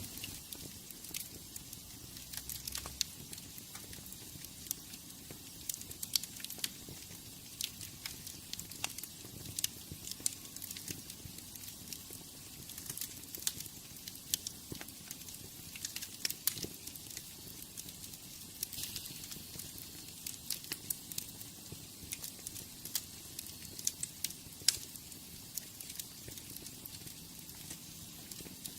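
Wood fire in a fireplace crackling: irregular sharp pops and snaps over a steady soft hiss of the flames.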